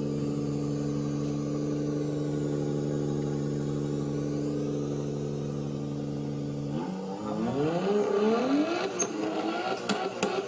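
A man imitating a car engine with his voice: a steady idling drone, then from about seven seconds in a series of rising and falling revs.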